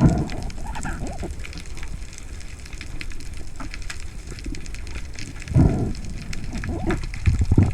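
Underwater ambience from a spearfishing dive: a dense, steady crackle of tiny clicks, with two low whooshes of water movement near the end.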